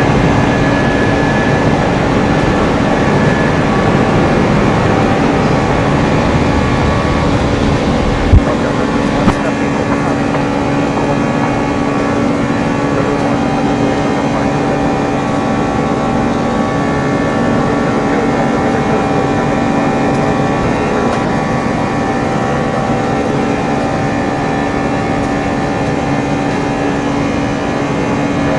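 Four jet engines of an Airbus A340 running steadily at high power: a loud, continuous drone with several steady whining tones. There is a brief thump about eight seconds in.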